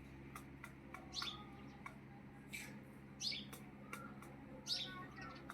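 Birds chirping: about four short, high, falling chirps, with scattered clicks and fainter shorter notes, over a steady low hum.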